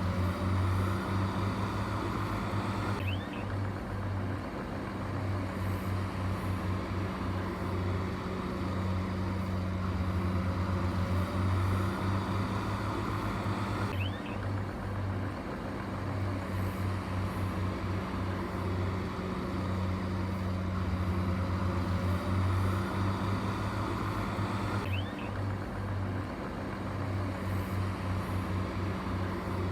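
Heavy machine's diesel engine running steadily with a low hum. The same pattern of sound repeats about every eleven seconds.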